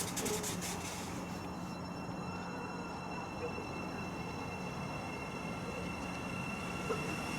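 An approaching train: a steady low hum under several high-pitched whining tones that grow louder near the end.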